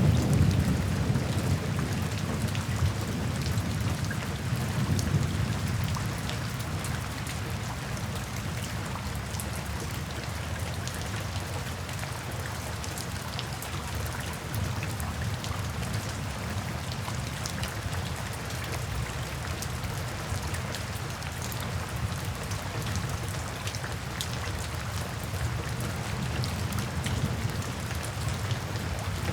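Steady rain falling, with fine drop ticks, over a low rumble of soft thunder. The rumble is heavier at the start, dies down over the first few seconds, then stays low.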